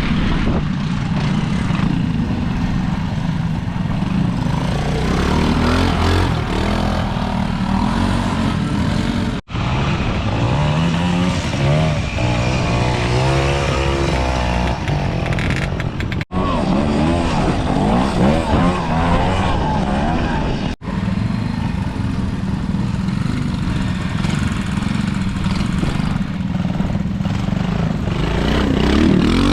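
Classic trials motorcycles picking their way through an off-road section, their engines run at low speed and blipped in short rising and falling revs. The sound breaks off abruptly three times for a split second where one rider's run gives way to the next.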